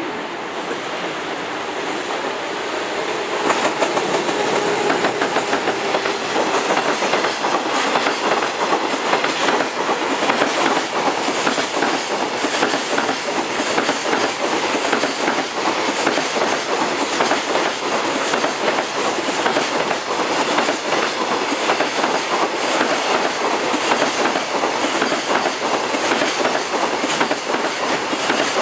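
JR Freight EF210 electric locomotive coming by at the head of a long freight train, then loaded container flat wagons clattering steadily over the rail joints. The noise grows louder about three and a half seconds in as the train draws close, and the rapid clatter runs on unbroken as the wagons pass.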